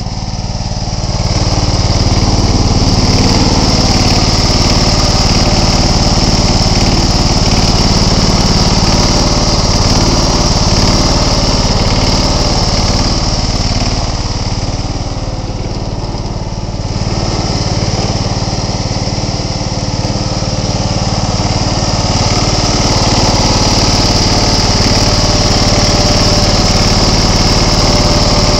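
John Deere 265 lawn tractor's 17-horsepower Kawasaki engine running steadily and loudly, shortly after a cold start. It gets somewhat quieter just past halfway, then comes back up.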